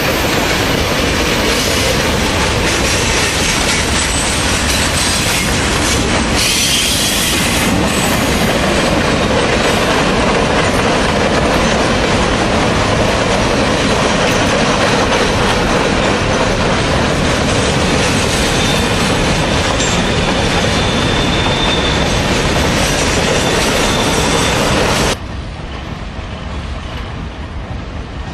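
Train cars rolling past on the rails: a steady, loud clatter of wheels with a faint wheel squeal. About three seconds before the end the sound drops suddenly to a quieter, duller rumble.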